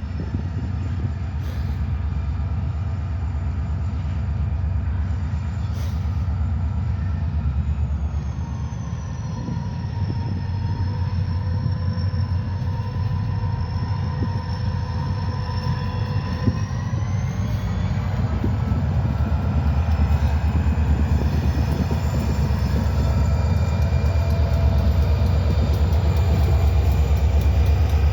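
Diesel freight train locomotives running, with a steady low engine drone and a thin high whine that falls in pitch, holds, then rises again. It grows louder near the end.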